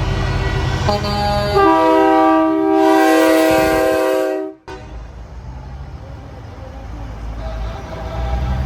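Train-style air horn on a parade truck blowing a chord of several notes for about three seconds, after a short toot about a second in; the horn cuts off suddenly. A low engine rumble runs underneath.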